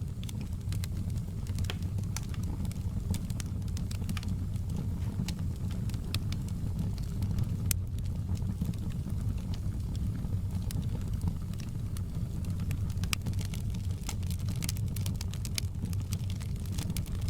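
Fireplace fire crackling: a steady low rumble of flames under frequent, irregular sharp pops and crackles.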